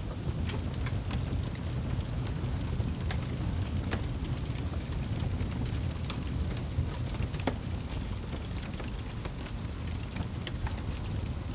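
Wood fire crackling, with frequent sharp pops and snaps over a steady low rumble of flame.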